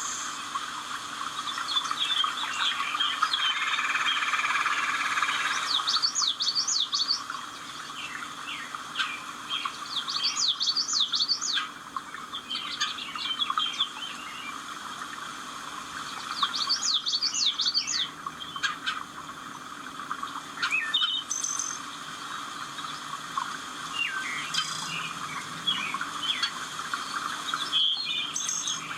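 Birds singing: repeated quick phrases of fast up-and-down whistled notes every few seconds, with scattered shorter chirps between them, over a steady background hiss.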